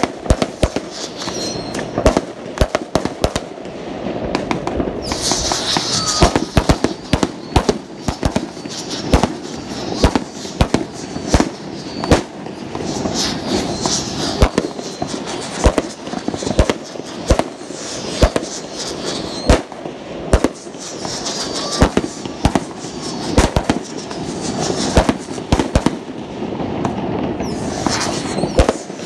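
Aerial fireworks going off: many sharp bangs in quick, irregular succession over a steady din of more distant explosions, with patches of high crackle now and then.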